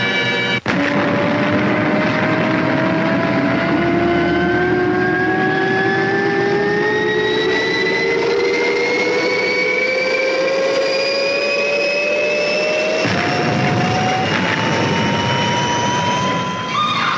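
Loud engine roar over a rushing noise, with a whine that climbs slowly and steadily in pitch. The sound changes abruptly about thirteen seconds in.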